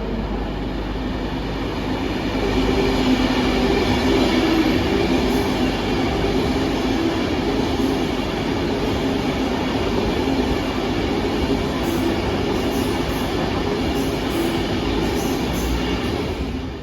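Avanti West Coast Class 390 Pendolino electric train running past, a steady rumble with a low hum, loudest about three to five seconds in.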